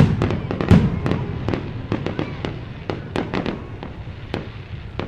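Fireworks going off in quick, irregular succession: a stream of sharp cracks and bangs over a continuous crackle, with two heavy booms in the first second.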